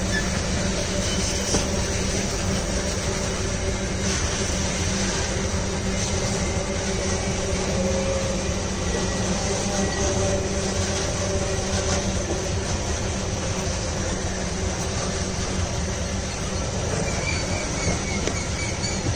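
Loaded iron-ore gondola wagons of a long freight train rolling past, a steady, continuous rumble and clatter of steel wheels on rail.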